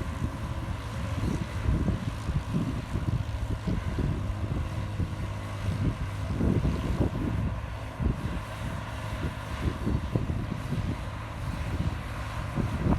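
Diesel engine of a Komatsu bulldozer running steadily, with irregular low knocks and rumbles underneath.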